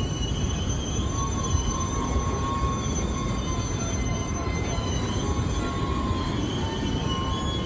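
Freight train rolling past, its cars rumbling steadily while the wheel flanges squeal in several steady high tones.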